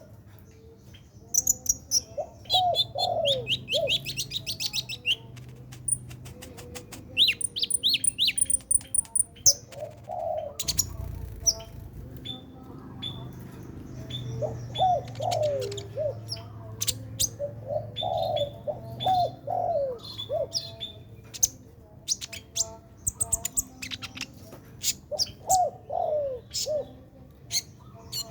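A small songbird's rapid high chirps and trills in quick runs, over repeated low cooing of a dove in short groups of two or three notes.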